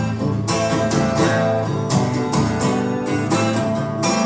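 Acoustic guitar strummed in a steady rhythm between sung lines, several chord strokes a second.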